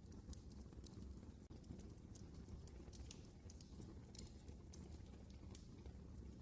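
Quiet wood fire burning in a fireplace: irregular sharp crackles and pops, several a second, over a low steady rumble of the flames.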